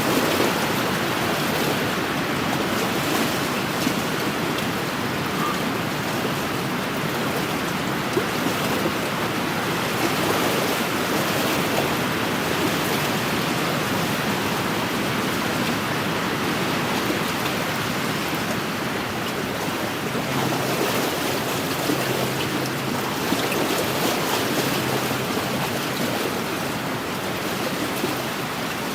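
Small wind-driven waves washing steadily against a lakeshore, with wind blowing over the water.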